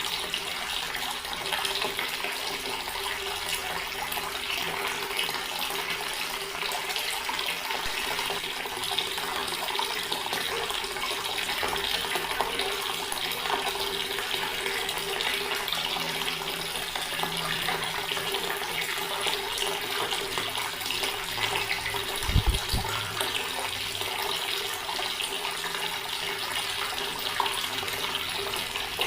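Water from a tap running steadily into a stone basin, an even splashing flow. About three quarters of the way through there is one brief low thump.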